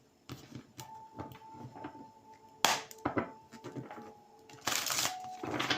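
Tarot cards being shuffled and handled: irregular rustling with sharp slaps of the deck, loudest a little before the middle and again near the end.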